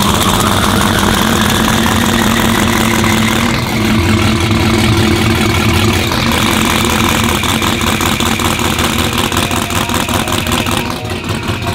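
A car engine idling, loud and steady.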